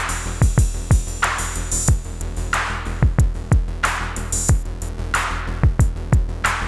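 Arturia MiniBrute 2 analog synthesizer sound demo: a steady low bass line with a drum-machine-style beat of short kicks that drop quickly in pitch, and a swelling hiss about every second and a bit.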